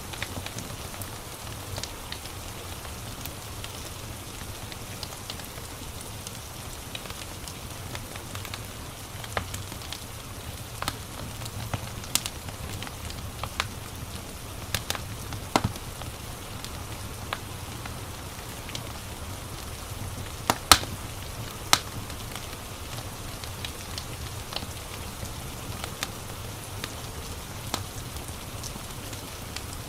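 Steady rain hiss with a wood fire crackling over it: irregular sharp pops and snaps, the two loudest about two-thirds of the way through.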